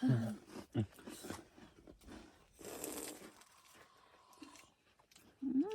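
Food being crunched and chewed close to the microphone, with scattered crisp clicks and a short rustling burst about three seconds in.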